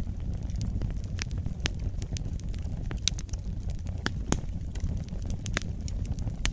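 Wood fire burning in a fireplace: a steady low rumble of flames with irregular sharp crackles and pops, a few louder pops about three and four seconds in.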